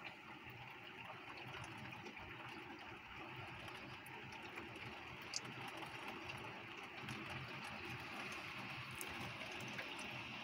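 Heavy shower rain falling, a steady hiss with scattered sharp taps of drops, one louder tap about five seconds in.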